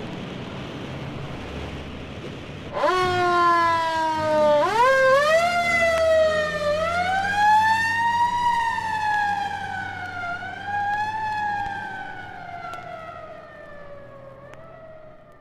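Low engine rumble, then about three seconds in a vehicle siren starts and wails up and down in slow pitch glides. It then winds steadily down in pitch toward the end.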